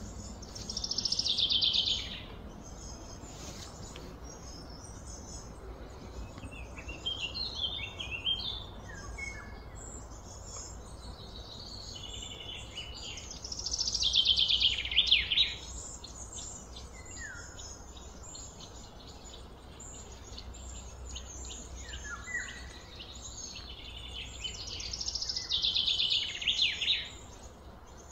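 Birds singing: a loud, high song phrase comes three times, about twelve seconds apart, with softer scattered chirps in between over a low steady rumble.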